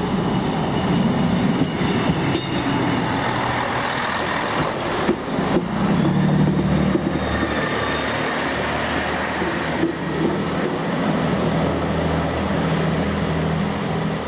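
Diesel passenger train close by, its engine running with a steady low hum; a thin high whine rises gently in pitch about halfway through.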